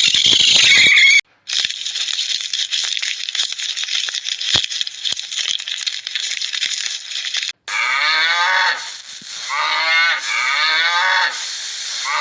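An animal calling repeatedly, four or five calls each about a second long that rise and fall in pitch, after several seconds of hissing, crackling noise.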